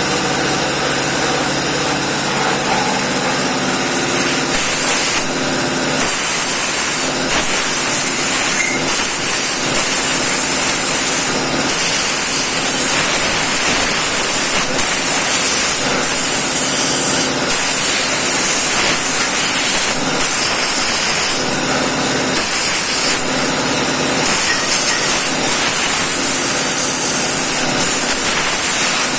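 Compressed-air blow gun hissing loudly as it blasts through a crankshaft's journals and oil holes to clear out dust and debris, the hiss changing in strength as the nozzle moves from hole to hole.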